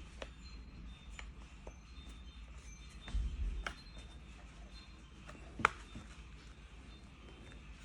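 A few scattered sharp clicks and taps, typical of small hard parts being handled, with one louder click about five and a half seconds in and a brief dull knock around three seconds, over a low steady hum.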